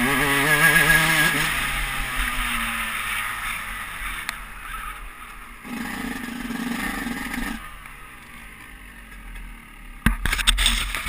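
Motocross dirt bike engine winding down from revs and settling low as the bike slows, with a louder rumble for a couple of seconds midway. Sharp knocks and scraping clatter near the end.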